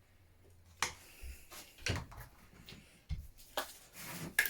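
Hand tools and parts being worked on a scooter being stripped down: about six separate sharp clicks and knocks, with a short rustling scrape near the end.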